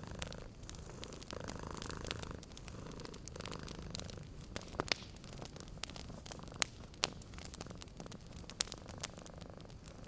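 A domestic cat purring steadily and close, over a wood fire crackling in a fireplace with scattered sharp pops, a few of them louder in the second half.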